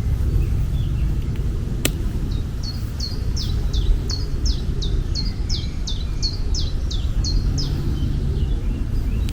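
A bird singing a run of repeated high, downward-slurred notes, about three a second, over a steady low rumble, with a single sharp click shortly before the song begins.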